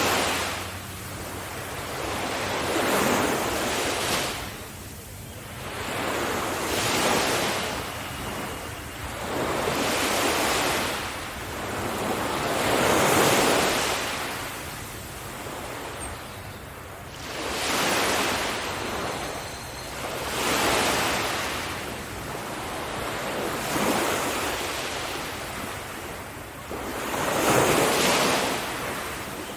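Ocean waves breaking on a beach, each one swelling and washing back about every three to four seconds, with some wind on the microphone.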